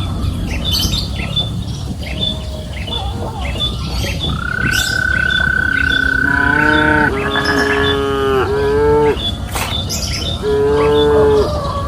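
Cattle mooing: a run of about four moos back to back in the middle, then one more near the end. A steady high tone holds for a couple of seconds before the moos, and a faint regular chirping goes on throughout.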